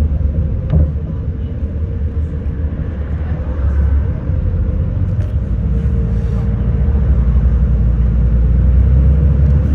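City bus running, heard from inside the cabin: a steady low engine and road rumble with a faint steady whine over it, and a brief knock about a second in.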